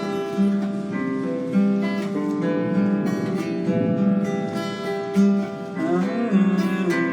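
Guitar played in slow strummed chords that are left to ring, with a note bent and wavering in pitch about six seconds in.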